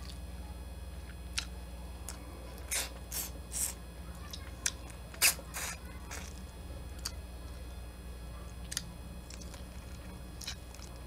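Close-miked eating sounds: biting and chewing shell-on garlic buttered shrimp, with scattered crunchy clicks and a few louder bursts about three and five seconds in.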